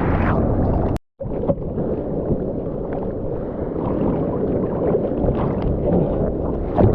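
Seawater sloshing and gurgling around a POV camera in the surf, heard muffled. The sound cuts out for a moment about a second in, and a louder rush of water comes near the end.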